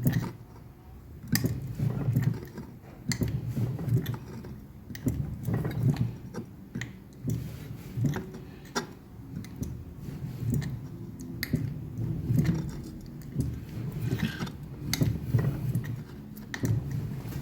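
Fly press forming veins into 2 mm steel plate: the press is worked in repeated strokes, with low knocks about once a second and sharp metallic clicks in between.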